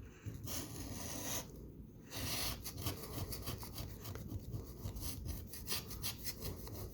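A coin scraping the latex coating off a scratch-off lottery ticket in quick repeated rasping strokes, with short pauses in the first two seconds.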